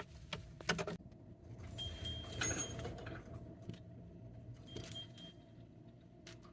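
Metallic clinking and jingling in two short bouts, one about two seconds in and one about five seconds in, over a faint steady hum.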